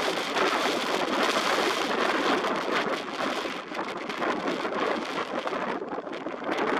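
Strong gusting wind, a dense rushing noise that eases slightly about halfway through.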